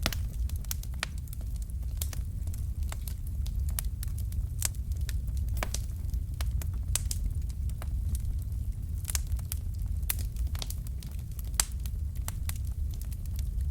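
Fire crackling: frequent sharp, irregular pops and snaps over a steady low rumble of the flames.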